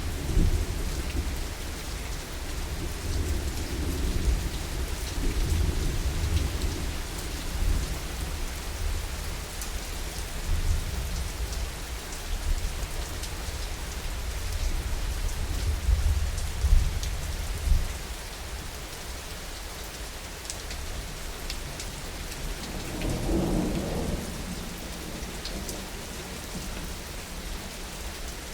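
Steady heavy rain hissing, with scattered drop ticks, under a long rolling rumble of thunder that dies away about two-thirds of the way through. A short, softer thunder rumble follows near the end.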